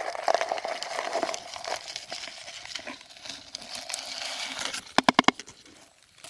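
Rustling and crinkling, like something being handled or pushed through dry material. About five seconds in comes a quick run of about five sharp pitched pulses, the loudest sound here.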